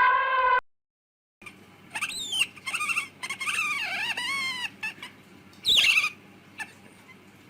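High-pitched squeaking calls from a small animal: a string of short rising-and-falling squeaks, then one loud squeal about six seconds in. It is preceded by the end of a held horn-like tone and a brief silence.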